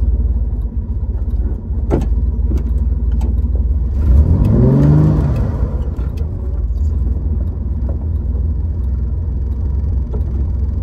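1965 Chevrolet Corvair's air-cooled flat-six engine running under way, heard from inside the cabin as a steady low rumble. About four seconds in it revs up in a rising pull, then eases off a second or so later.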